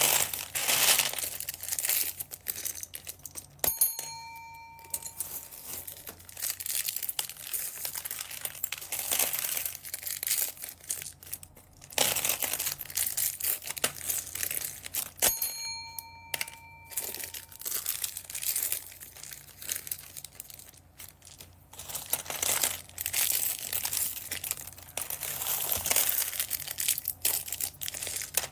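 Plastic bead bags crinkling and rustling as they are handled and torn open. Twice, about 4 and 15 seconds in, a sharp click is followed by a bell-like ding that rings for about a second.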